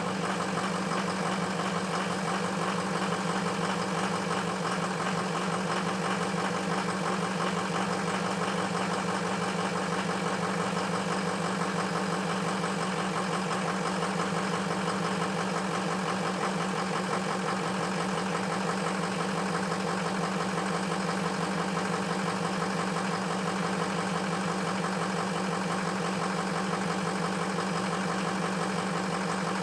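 Ford F-350 engine idling steadily after a cold start, running on two bad injectors.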